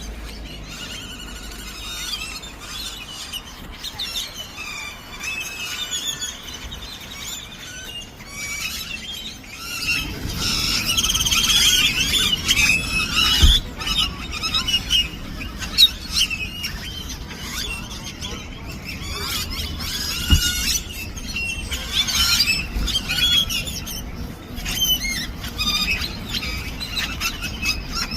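A large flock of birds in one tree calling all at once: many overlapping chirps, squeals and chatter from several kinds of birds. The calling grows denser and louder about ten seconds in, and a low rumble joins it.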